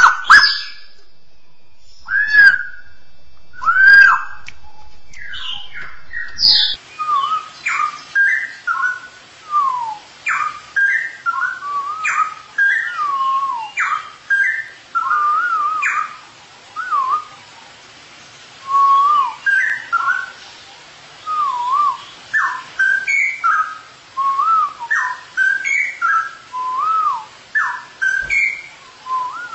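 Straw-headed bulbul (cucak rowo) singing: a few loud separate whistles, then, after a cut in the recording, a long run of quick bubbling whistled phrases that glide up and down in pitch.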